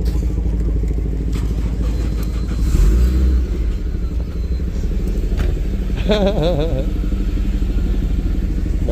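Car engines idling close by, a steady low rumble that swells briefly about three seconds in. A brief wavering voice is heard about six seconds in.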